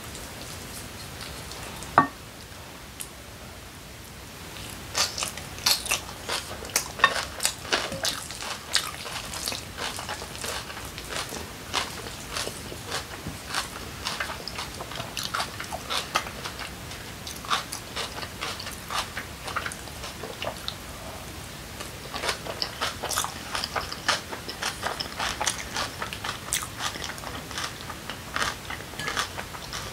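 Close-miked crunchy chewing of a mouthful of yeolmu (young radish) kimchi bibimbap, a steady run of crisp crunches. A single sharp click comes about two seconds in.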